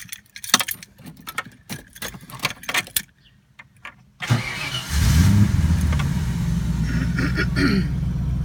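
Keys jangling and clicking, then about four seconds in the Holden 5-litre V8 is cranked, catches with a short rev flare and settles into a steady idle.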